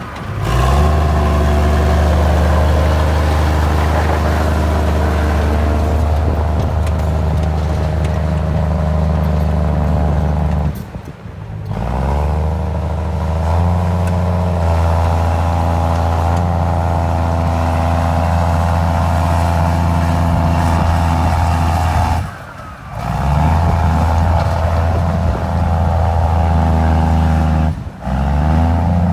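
Diesel engine of a Komatsu D53E crawler bulldozer running hard under load while pushing rock and soil, a deep steady engine note whose pitch shifts now and then. The sound drops away abruptly three times, about 11, 22 and 28 seconds in, then comes straight back.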